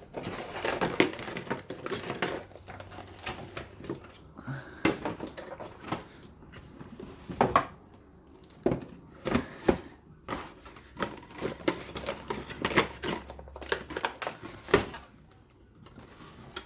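Irregular clicks, taps and light rustling of small plastic parts and their packaging being handled and set down.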